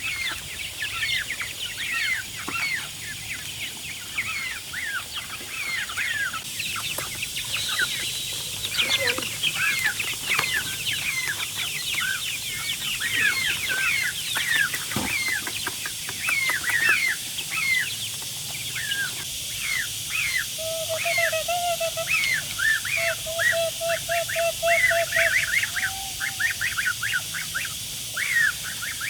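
Chickens calling: many short, high, falling peeps overlapping throughout, with a quick run of lower clucks a little past two-thirds of the way through.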